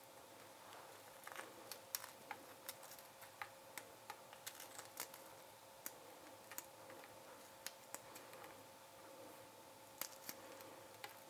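Faint, scattered clicks and light taps of dessert decorating at the kitchen counter, thickest in the first half and again near the end, over a steady low hum.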